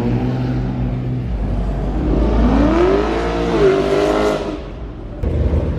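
A car engine running, then accelerating past with its pitch rising and levelling off while road noise swells and fades. The sound changes abruptly about five seconds in.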